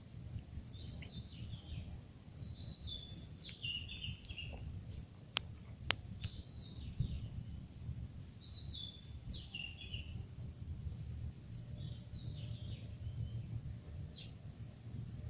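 A songbird singing short, stepped chirping phrases, repeated about every three seconds, over a steady low rumble. Two sharp clicks come about five and six seconds in.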